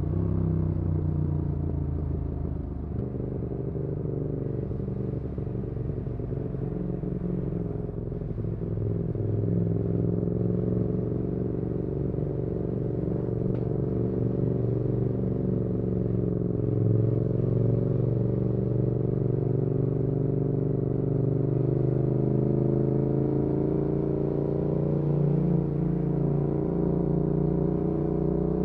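Yamaha XSR700's parallel-twin engine, breathing through an aftermarket IXRACE MK2 exhaust, running steadily while the motorcycle cruises, its pitch rising and falling gently.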